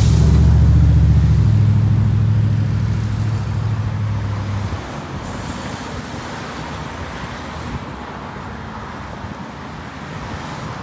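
Road traffic close by: a motor vehicle's engine runs with a loud, steady low drone for about the first four and a half seconds, then drops away. General traffic noise goes on after it.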